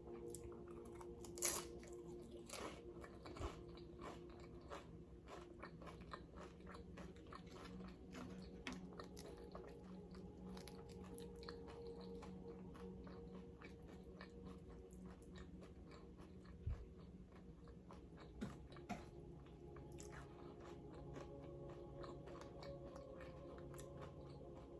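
Close-miked crunching and chewing of nacho chips, repeated crisp crunches with a few louder bites, the loudest about a second and a half in.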